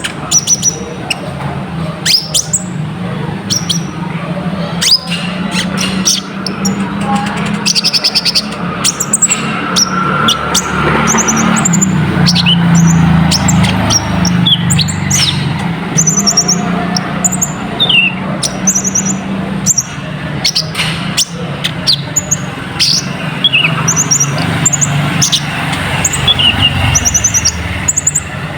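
Konin (kolibri ninja) sunbird singing at full song: a rapid run of short, high chirps and quick trills, repeated throughout over a steady low hum.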